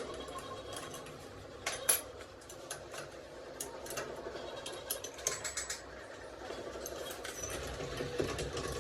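Scattered light clicks and taps of tools and metal parts being handled during diesel injection pump repair, the sharpest about two seconds in, over a faint steady hum.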